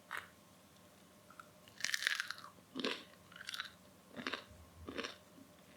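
Crisp crust of homemade yeast bread crunching: a short crackle at the start, then a run of about five crunches, roughly one every 0.7 seconds, the first the loudest.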